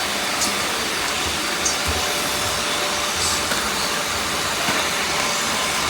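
Many robot vacuum cleaners running at once, a steady whirring noise of motors and brushes, with a few brief high chirps.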